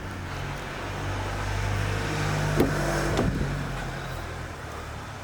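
BMW X5 engine idling with a steady low hum, with two sharp clicks about two and a half and three seconds in.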